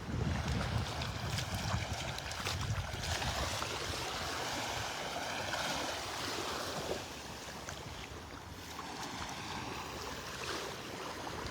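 Small waves washing onto the beach, with wind buffeting the microphone, heaviest in the first few seconds.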